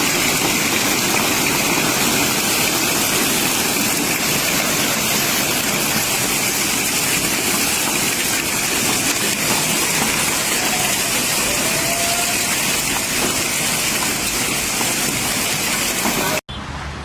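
Heavy rain pouring down as a steady, loud hiss.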